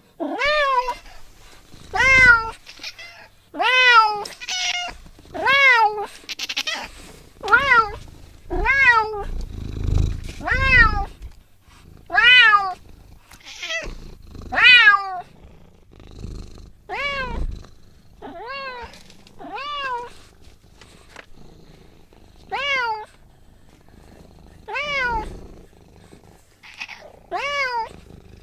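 A cat meowing over and over, one call every one and a half to two seconds, each call rising and then falling in pitch. A low rumble sits under the calls about ten seconds in.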